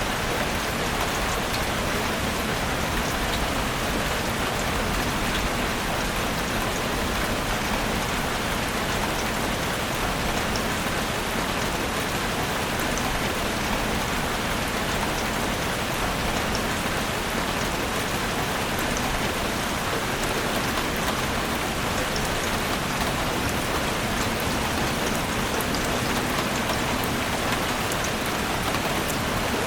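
Steady rain falling in a forest, an even hiss with scattered drop ticks.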